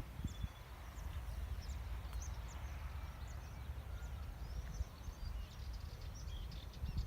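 Several small birds chirping and twittering, many short high calls overlapping throughout, over a low steady rumble.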